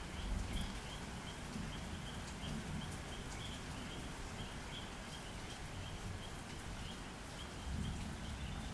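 Distant thunder rumbling low in swells, over the steady hiss of the night outdoors, with a high chirp repeating about twice a second.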